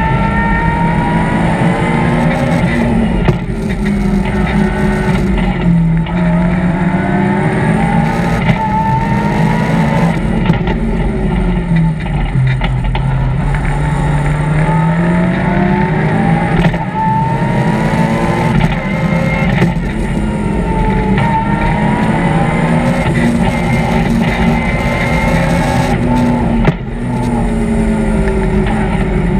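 BMW M3 rally car's engine at full stage pace, heard from inside the cabin. It revs up and down through the gears, the pitch climbing along each straight and dropping sharply at gear changes and braking for bends, about half a dozen times.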